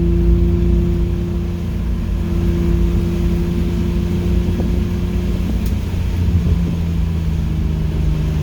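Car engine heard from inside the cabin, held at a steady pitch under throttle on the track, with tyre and road noise underneath. About five and a half seconds in the engine note changes and the noise grows rougher.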